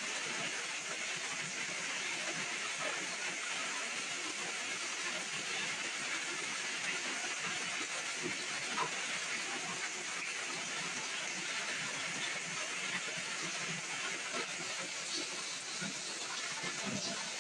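Heavy rain falling steadily, an even hiss with fine scattered drop patter.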